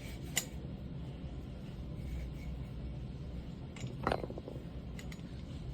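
Faint handling sounds from wiping out the inside of a pneumatic siding nailer's cylinder: a sharp click early, a brief rubbing squeak about four seconds in, and light ticks after it, over a steady low hum.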